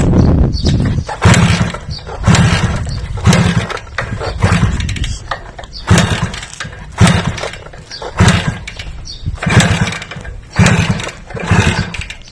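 A motor revved in short repeated bursts, about one a second, each blip loud and then dropping back.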